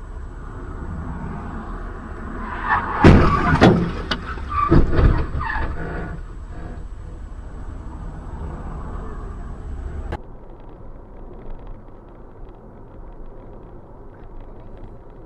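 Road vehicle running with a steady low rumble, with a cluster of loud bangs and knocks about three to five seconds in. Around ten seconds in the sound cuts abruptly to a quieter road-noise background.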